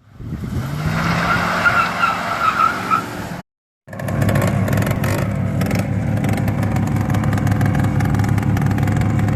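Dodge Cummins turbo-diesel pickup with full exhaust: for about three seconds tyres squeal in a wavering high tone over the engine, then after a brief cut the diesel runs steadily.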